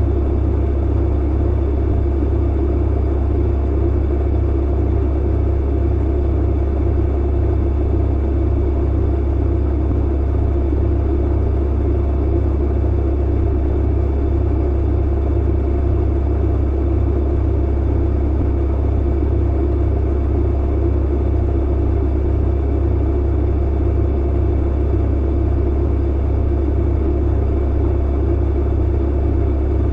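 Clothes dryer running steadily, a deep, unbroken hum with a constant whir above it.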